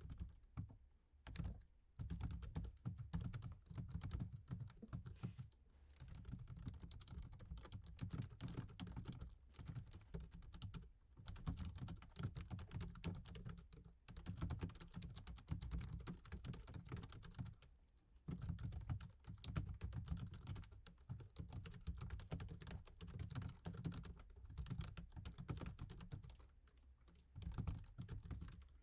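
Fast, steady typing on a laptop keyboard, with dense runs of key clicks broken by brief pauses every few seconds.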